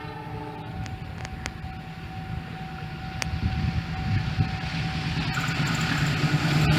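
Diesel locomotives of an approaching train, a low rumble growing steadily louder as they near, with a few faint sharp clicks.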